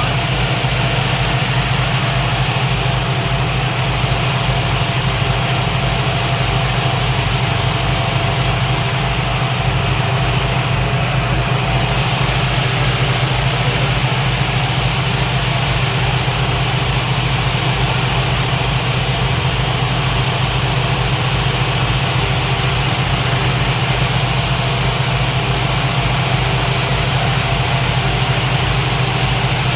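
Speedboat engines running steadily: a constant low drone with an even hiss over it and no change in pitch or level.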